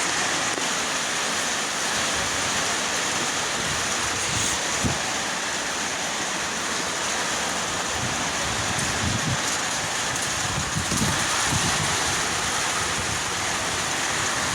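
Heavy rain pouring down in a steady hiss during a thunderstorm, with a few short low rumbles of wind on the microphone in the second half.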